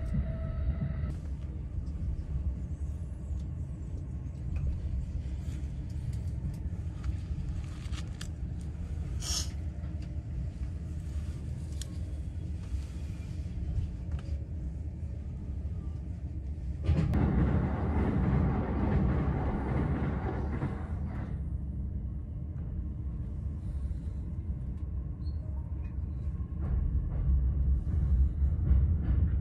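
Running noise of a JR East Tokaido Line commuter train heard from inside the Green Car: a steady low rumble, with a louder rushing noise for about four seconds past the middle and the rumble growing near the end.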